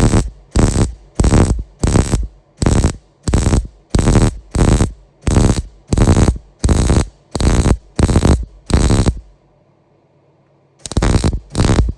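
Hand saw cutting through a steel exhaust pipe, in steady back-and-forth strokes about two a second, pausing briefly near the end before the sawing resumes.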